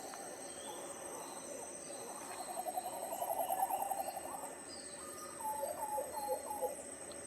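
Tropical forest birds calling: low-pitched hooting calls, with a rapid run of notes about halfway through and a string of short falling notes near the end, over a steady high-pitched whine.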